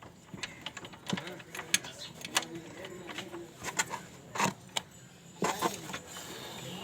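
Irregular metallic clicks and clinks of hand tools and nuts as a throttle body is bolted back onto an engine's intake manifold.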